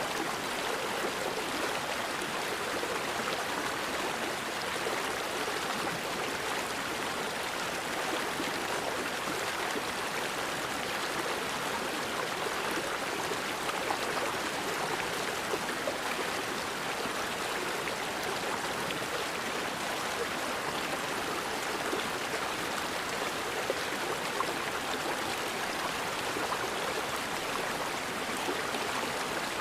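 Forest river flowing steadily: an even rush of water with small gurgles and a few slightly louder splashes.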